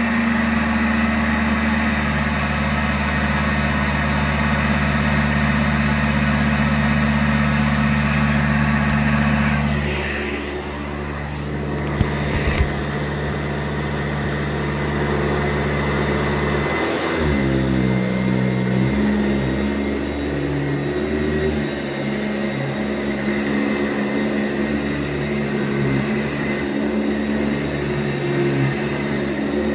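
Sanitaire SC684G upright vacuum cleaner running steadily over carpet. Its motor hum dips a little about a third of the way in, there are a couple of sharp clicks soon after, and its pitch wavers and shifts about halfway through before it settles.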